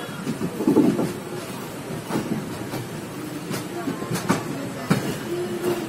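Indian Railways passenger coach rolling over the track as the train runs in to a station: a steady rumble broken by sharp, irregular clicks of the wheels over rail joints.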